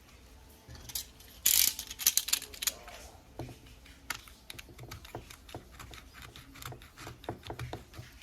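Irregular clicks and clatters of small metal parts and tools being handled on a workbench during repair of a rotary hammer drill, with a louder rattling clatter about a second and a half in.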